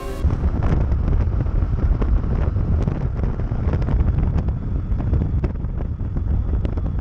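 Heavy wind buffeting on the microphone of a riding vehicle's camera, a dense low rumble with frequent sharp pops, over vehicle noise.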